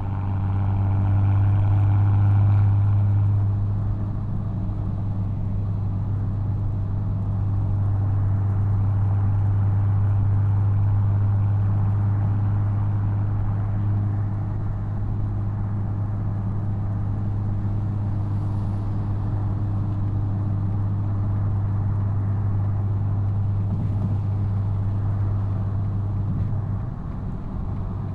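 BMW M240i's B58 turbocharged inline-six heard from the exhaust, running at a steady drone under light, even throttle while driving, swelling louder briefly in the first few seconds.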